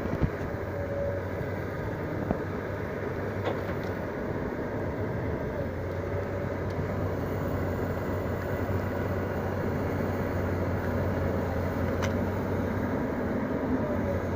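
Engine of a log-hauling tractor running steadily while skidding timber, its low hum growing slightly louder near the end.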